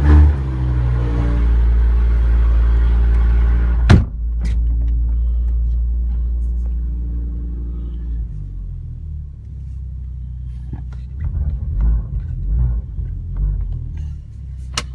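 Audi TT RS plus's turbocharged five-cylinder engine idling after a cold start, with a short blip of revs at the very start. A sharp click comes about four seconds in, and after about eight seconds the idle drops and gets quieter and less even.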